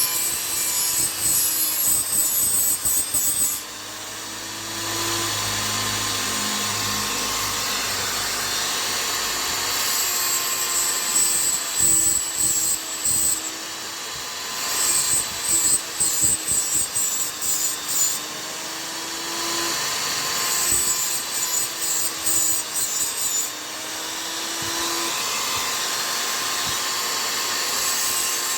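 A steel chisel blade being sharpened against an abrasive, in spells of rapid scraping strokes a few seconds long. A steady motor hum runs underneath.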